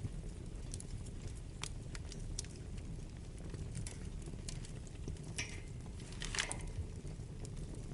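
Wood fire burning in a fireplace: a steady low rumble of flames with scattered crackles and pops of burning wood, two of them louder about five and a half and six and a half seconds in.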